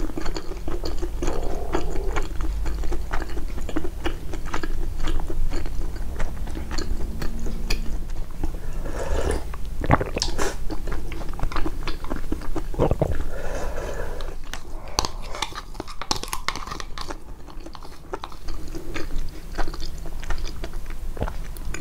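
Close-miked chewing and biting of a mouthful of food, a dense run of wet clicks and small crunches, with the chewing sounds boosted in editing.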